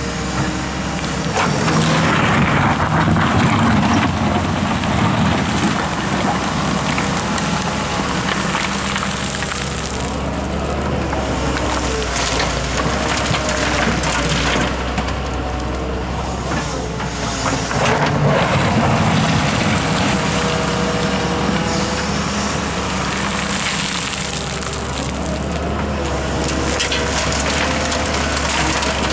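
Excavator's diesel engine running under load while its bucket digs and scoops soil, the machine noise swelling louder twice, a few seconds in and again past the middle.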